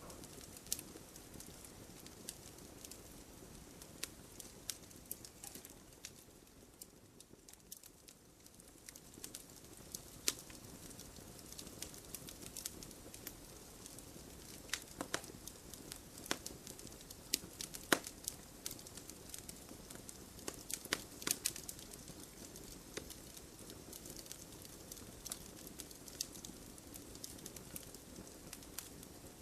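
Wood fire crackling in a fireplace: irregular sharp pops and snaps over a low, steady rush of burning. There is a short lull about a quarter of the way in, then the popping picks up again.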